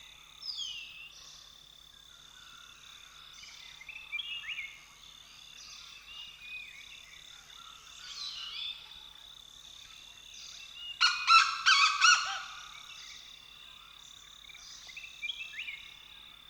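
A chorus of wild birds with many short chirps and down-slurred whistles, over a steady high-pitched tone. About eleven seconds in, a louder harsh call repeats several times for just over a second.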